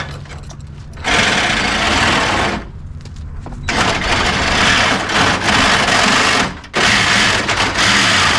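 Electric power tool cutting metal in three long runs, with a pause of about a second partway through and a brief stop near the end.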